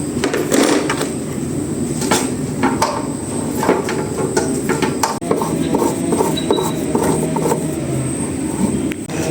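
Irregular mechanical clicking and clatter, like tools or metal parts being worked on a small engine, over a steady low hum.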